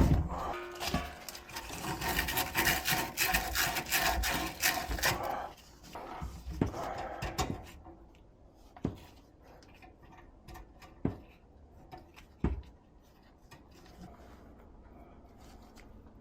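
Quick rubbing and scraping strokes for about five seconds, another short stretch of scraping, then a few separate knocks and clicks.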